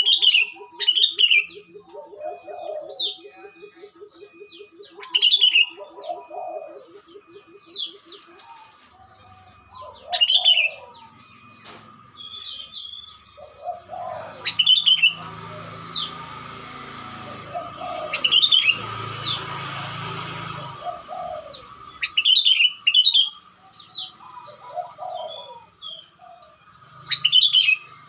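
Sooty-headed bulbul (kutilang) calls from a lure recording: short bright chirps repeated every two to three seconds. A rapid low pulsing trill runs underneath for the first eight seconds or so.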